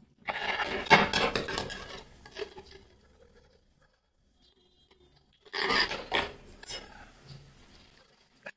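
Crunching bites of crispy fried chicken lollipop chewed close to the microphone, in two bouts of crackling crunch about five seconds apart.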